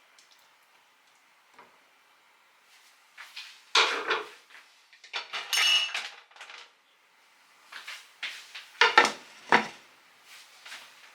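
A few knocks and clatters of hard objects being handled, in three bursts, one with a short ringing clink like ceramic or metal.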